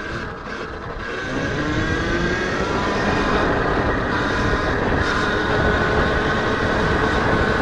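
Electric dirt bike's motor whining as it speeds up, the pitch rising over the first couple of seconds and then holding steady at speed, with a rushing wind-and-tyre noise under it.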